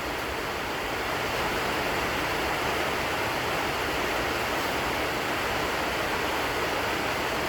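Steady, even rushing noise with no rhythm, pitch or change, like air moving through a fan or blower.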